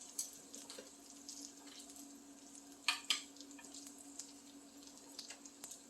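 Duck meat sizzling faintly on a grill, with small scattered crackles over a steady low hum, and a couple of sharp clicks about three seconds in.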